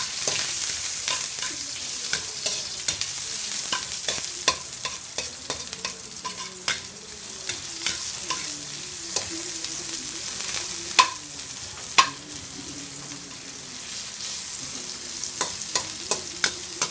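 Onion, garlic and ginger sizzling in hot oil in a wok, with a metal ladle scraping and clinking against the pan as they are stirred. Two louder clanks of the ladle come close together past the middle.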